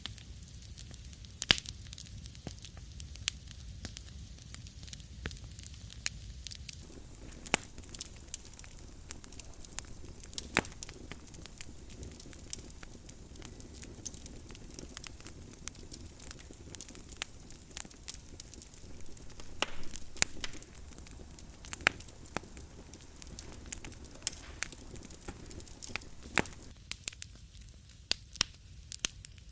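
Wood fire crackling in a fireplace: irregular sharp pops and snaps over a low, steady rumble of flames.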